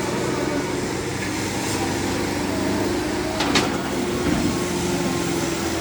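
Diesel tractor engines running steadily at high revs, as in a tractor tug-of-war, with a sharp click about three and a half seconds in.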